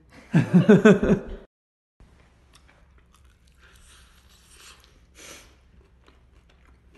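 A loud voice sound in the first second and a half, then, after a brief cut, faint biting and chewing of sauced fried chicken: soft crunches and wet mouth sounds.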